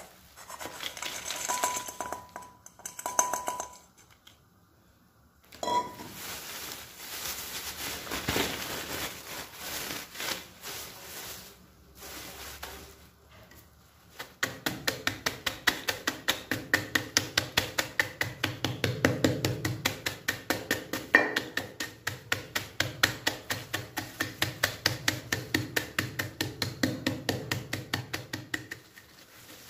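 A metal utensil clinking against a bowl, then beating a mixture in the bowl with a quick, even rhythm of about four strokes a second for the second half.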